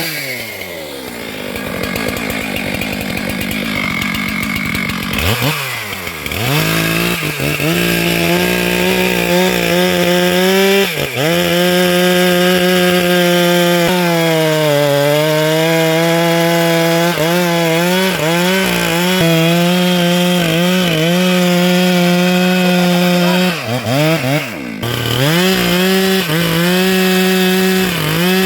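Stihl MS 462 two-stroke chainsaw running at high revs while cutting sengon wood. The pitch sags for a couple of seconds around the middle as the cut loads the engine, and it drops and picks up briefly several times. In the first few seconds the pitch falls, then revs back up about five seconds in.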